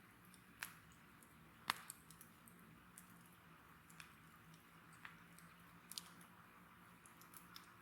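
Wood bonfire crackling: sparse, sharp pops and snaps from the burning wood, the loudest a little under two seconds in.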